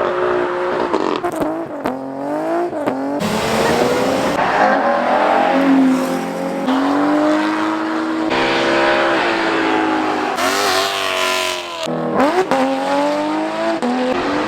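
Car engines revving hard and accelerating away as cars leave a meet, the pitch climbing and falling several times with abrupt changes from one car to the next.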